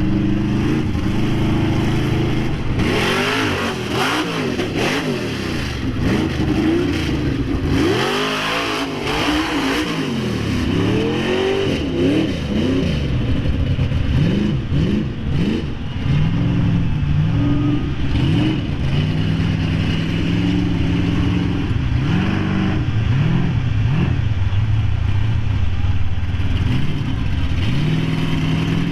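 Mega truck's engine revving hard, its pitch rising and falling again and again under repeated throttle bursts.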